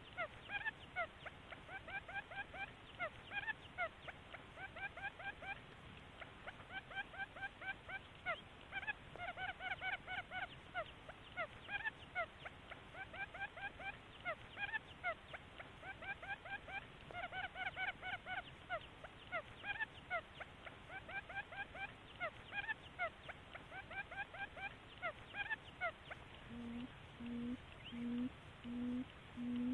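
Buttonquail calls played as a lure: fast runs of short rising chirps in repeated bursts. Near the end they give way to a steady series of low hoots, about one a second.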